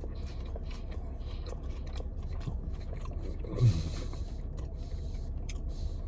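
A man chewing a mouthful of double-patty burger close to the microphone, with small wet clicks and crunches, over a steady low hum. About three and a half seconds in he gives a short hummed "mm" that falls in pitch.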